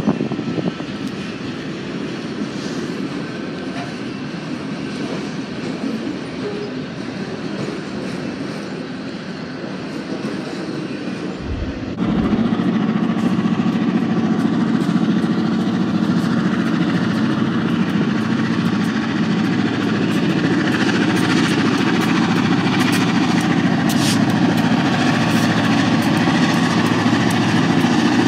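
Freight train rolling past with a steady rumble of wheels on rail. About twelve seconds in, the sound jumps louder to an Elgin, Joliet & Eastern diesel-electric locomotive's engine running with a steady drone as it passes close, working under power, with scattered clicks of wheels over rail joints in the later part.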